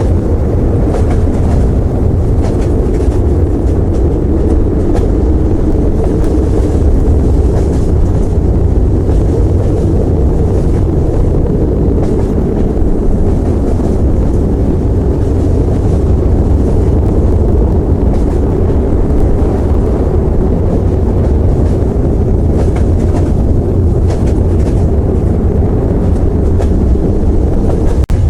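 Train running: a loud, steady low rumble with faint clicks scattered through it.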